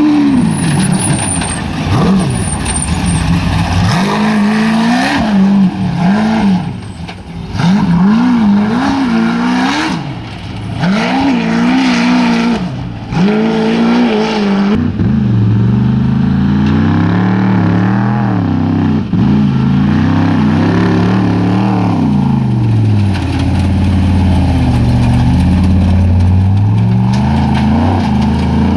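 Off-road racing engine at high revs, its pitch climbing and dropping every couple of seconds. From about halfway it gives way to a deeper, fuller engine note with wavering pitch.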